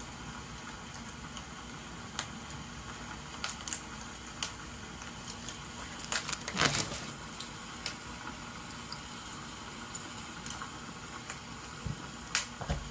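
Wood fire crackling over a steady hiss of rain: irregular small pops and snaps, with a louder cluster of pops about halfway through and a couple more near the end.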